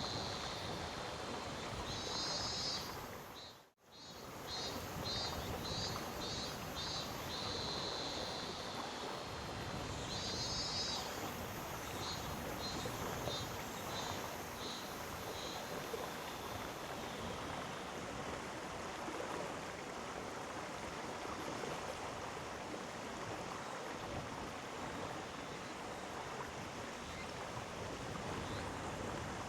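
Mountain stream flowing steadily, an even rush of water. The sound drops out briefly a few seconds in, and a high, rhythmically pulsing chirp repeats over the water through the first half.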